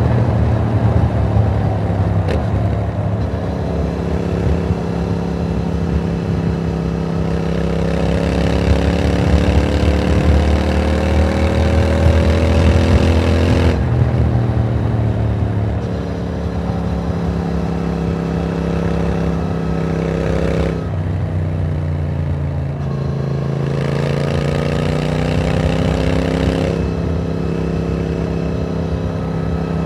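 Stock Triumph Speed Twin's parallel-twin engine pulling on the road, its pitch climbing slowly as it accelerates. The pitch drops at gear changes about two seconds in and again about halfway through. Around two-thirds of the way it eases off and falls in pitch, then climbs again.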